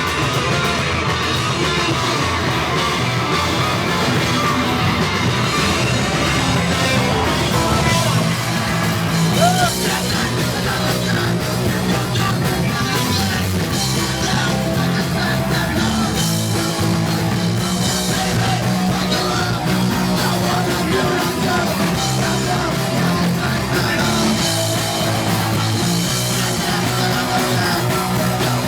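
Punk band playing live, with loud distorted guitars, drums and yelled vocals. A brief rising squeal about nine seconds in.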